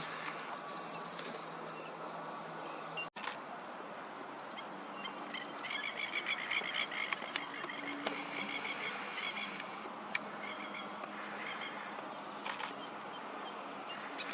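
Birds calling: a rapid chattering run of repeated calls from about five to nine seconds in, over a steady background hiss.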